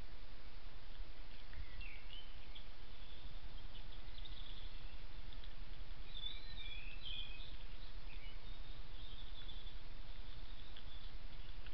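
Faint songbird song: short warbling and chirping phrases that slide up and down in pitch, a burst about a second and a half in and a longer one about six seconds in, over a steady low hum.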